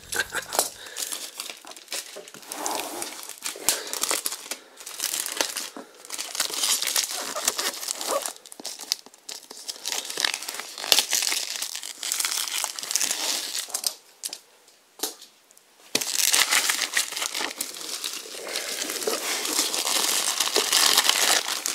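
Cellophane shrink-wrap crinkling and tearing as it is peeled off a cardboard box by hand, in irregular crackly bursts. A short quiet pause comes about two-thirds of the way through, then dense steady crinkling.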